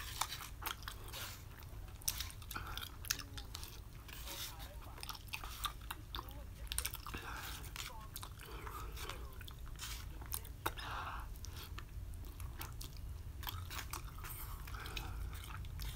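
A person chewing a mouthful of spicy ramen noodles close to the microphone, with many short wet clicks and smacks of the mouth.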